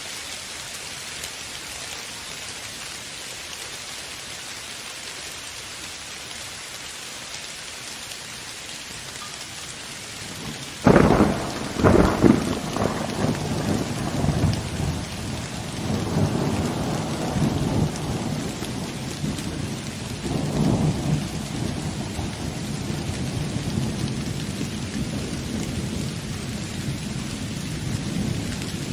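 Steady rain falling, then a sudden thunderclap about a third of the way in, a second crack a moment later, and rolling thunder rumbling low under the rain for the rest, swelling twice more.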